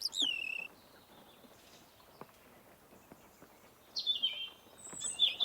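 Small songbirds chirping: a falling whistled call at the start, then a quiet stretch, then more chirps and a high thin whistle in the last second or so.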